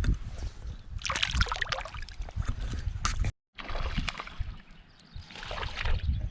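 Water splashing and sloshing in two bursts over a steady low rumble, with a brief cut to silence about three seconds in.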